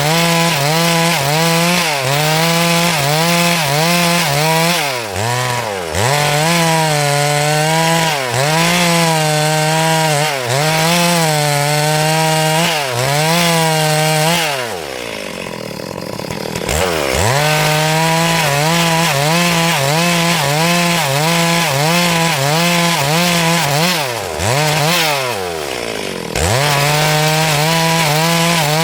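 Stihl MS382 two-stroke chainsaw at full throttle ripping lengthwise through a hardwood log, its engine speed dipping and recovering under the load of the cut. The engine drops off throttle twice, about halfway through and again near the end, then revs back up.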